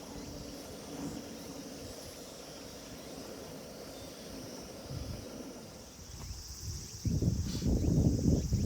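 Insects chirring steadily in high grass. About seven seconds in, a loud, uneven low rumble breaks in and covers the insects.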